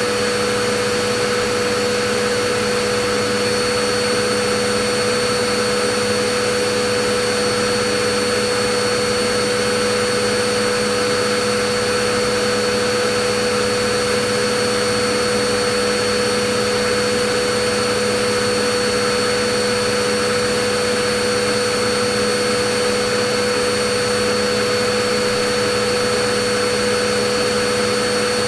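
Vacuum cleaner running steadily: an even motor hum and rushing air noise with a constant whine, no change in speed.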